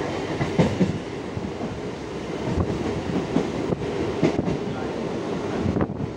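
ICF Medha-rake EMU local train running along the line, heard from inside the coach: a steady rumble of wheels on rail with irregular knocks and rattles.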